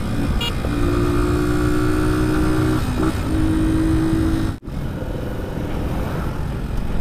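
Motorcycle engine running at a steady pace under way, heard from the rider's seat with wind and road rumble on the microphone. The engine note dips briefly about three seconds in. The sound breaks off for an instant a little later, then the engine and wind noise carry on.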